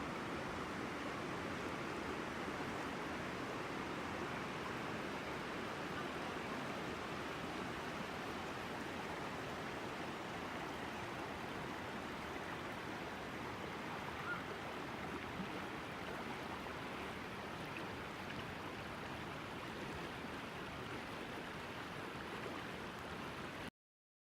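Shallow river babbling steadily, an even rushing of water with no other sound standing out; the audio cuts off abruptly near the end.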